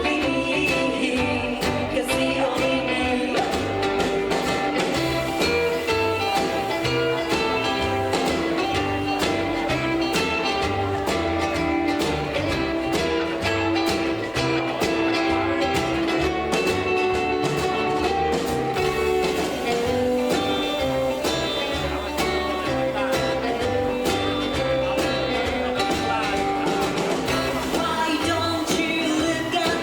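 Live rockabilly band playing a song: singing over guitar, a bass line stepping from note to note, and a steady drum beat, without a break.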